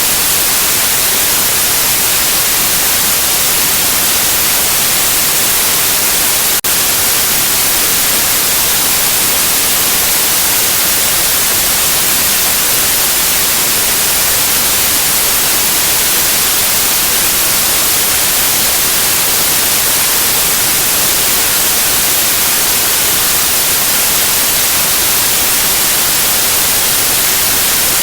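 Steady, loud white noise: an even, constant hiss brightest in the high end, with one brief dropout about a quarter of the way in.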